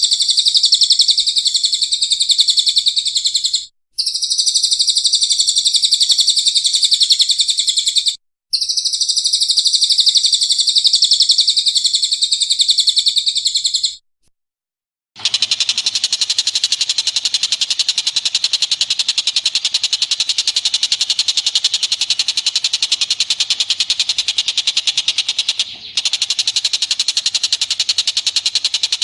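Recorded bird song played as a training track: a dense, high, rapid trill in three long bursts with short breaks. After a second's silence a different recording begins, a continuous rapid chattering call that is coarser and reaches lower in pitch.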